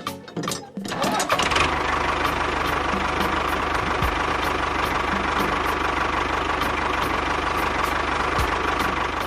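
Small engine running steadily at a fast, even knocking pulse, kicking in about a second and a half in after a few sharp clicks.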